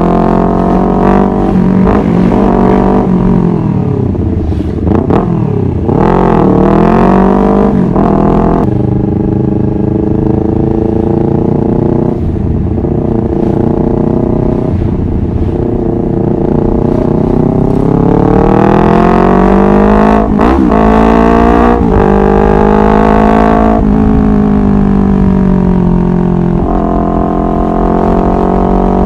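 Honda CBR250RR motorcycle engine running under way, its pitch rising and falling with the throttle through the gears. Quick rev drops and rises come about 5 seconds in and again about 20 seconds in.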